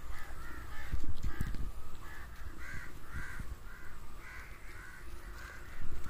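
A bird calling over and over, short arched calls at about two a second, with low rumbles and bumps on the microphone underneath.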